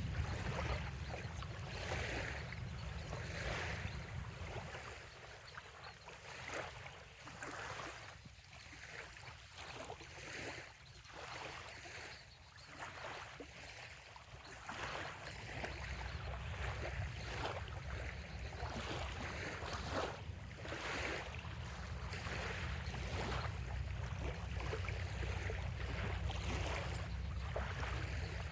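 Small waves lapping and washing on a sandy bay shore, each wash a soft swell of hiss every second or two. A low wind rumble on the microphone underlies it, easing off for several seconds in the middle and coming back.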